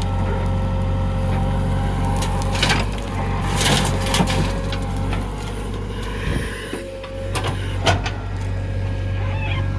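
Heavy diesel machinery engine running steadily, with several sharp crunching knocks and clatter of loaded earth, the loudest about three to four seconds in and a single one near the end.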